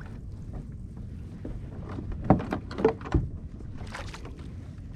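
A few sharp knocks and clicks around the middle, like gear being handled on a fishing kayak, over a steady low rumble of wind on the microphone.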